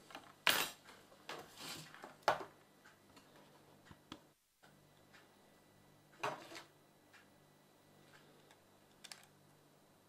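A handful of sharp mechanical clicks and knocks, several close together near the start, another about six seconds in and a lighter one near the end, over a faint steady low hum.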